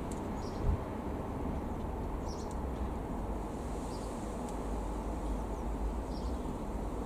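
Steady low outdoor rumble with a few faint, high bird chirps scattered through it and a single short thump about a second in.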